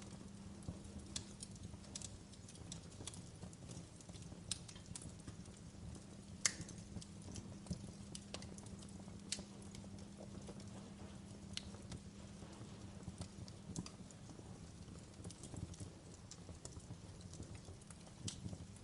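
Wood fire in a fireplace crackling: irregular small snaps and pops, with one louder pop about six and a half seconds in. A faint steady low hum runs underneath.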